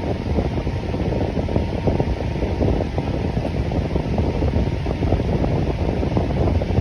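Fan running steadily: a constant low rush of moving air with a slight, uneven flutter.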